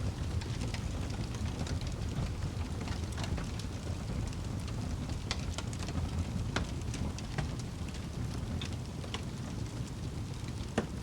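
Wood fire burning in a fireplace: a steady low rumble of flames with irregular crackles and a few sharper pops, the loudest just before the end.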